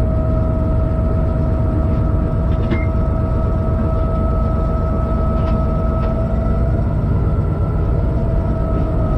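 Freight train heard from inside the locomotive cab while running: a loud, steady rumble with a steady whine over it and a few faint clicks.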